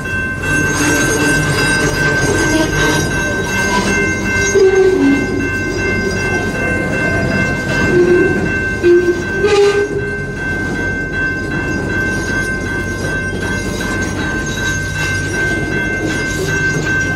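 CN freight train's autorack cars rolling slowly past at close range with a low rumble, under a steady high-pitched squeal from the wheels and brakes as the train slows to a stop. A single sharp knock about ten seconds in.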